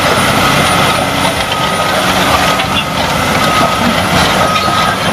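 Heavy machinery engine running loudly and steadily, with a high whine that comes and goes.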